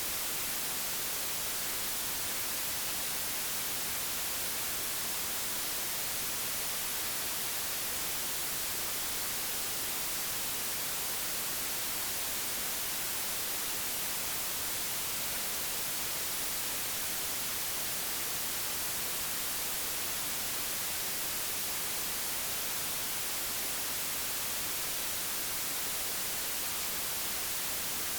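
Synthetic white noise: a steady, even hiss, strongest in the treble, with no variation.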